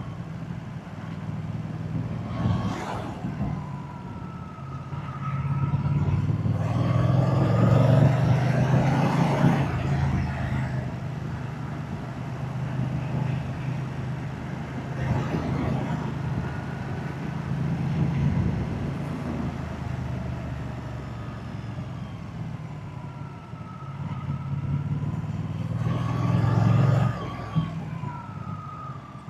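Moto Guzzi motorcycle's V-twin engine and exhaust while riding. The engine note rises and falls with the throttle, loudest about eight seconds in and again shortly before the end.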